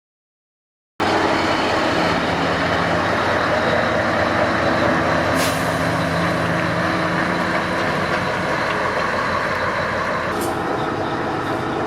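Scania 143's V8 diesel engine running steadily, cutting in abruptly about a second in, with a single sharp click about halfway through.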